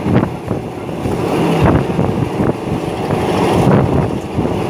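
A passenger train carriage running along the track, heard from inside: a steady rumble and rattle of the wheels on the rails, with scattered sharp knocks.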